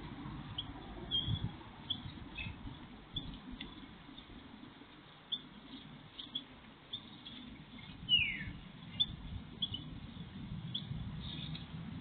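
Small garden birds calling with scattered short, high chirps, and one downward-sweeping call about eight seconds in, over a steady low background rumble.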